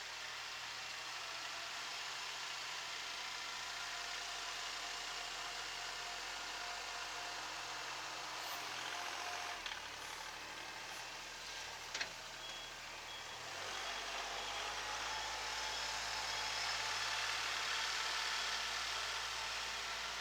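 Kubota SL28H tractor's diesel engine running during loader work, with a knock about 12 s in and a reversing buzzer beeping briefly just after it; the engine gets louder about two-thirds of the way through.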